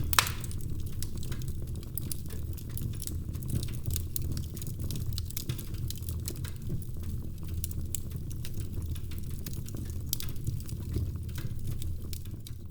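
Wood fire crackling in a fireplace: a steady low rumble of flames with frequent sharp pops and snaps, one louder pop right at the start.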